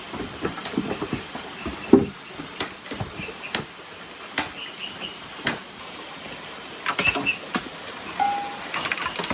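Steady rain hiss, broken by irregular sharp taps and knocks, the strongest about two seconds in.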